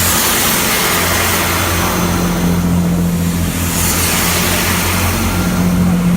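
Diesel train passing close by over the level crossing: a steady low engine drone under a loud rushing of wheels on rail.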